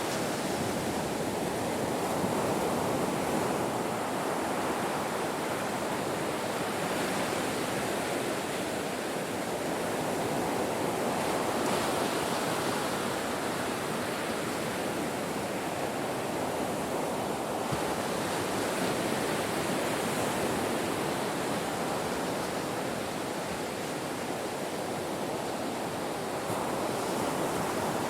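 Ocean surf washing onto a shore: a continuous rushing wash that swells gently and recedes every several seconds as waves break.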